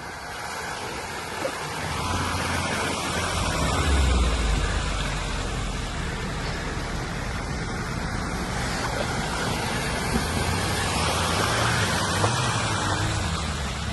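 Off-road vehicle engine running under load, its low rumble building about two seconds in and loudest around four seconds. The steady rush of floodwater runs underneath.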